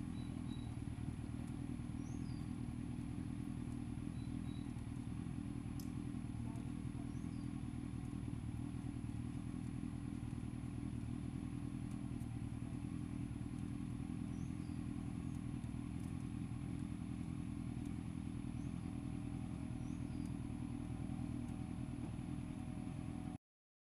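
Kawasaki ER-6f motorcycle's parallel-twin engine running at a steady pace, heard from the rider's camera, cutting off abruptly near the end.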